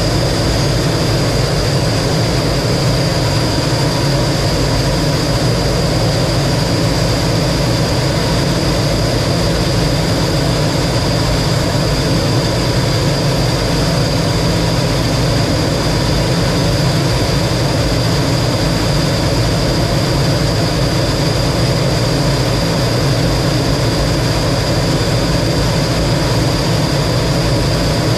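T-33 jet trainer's turbojet and airflow noise in flight: a steady, unchanging rumble with a constant high whine over it.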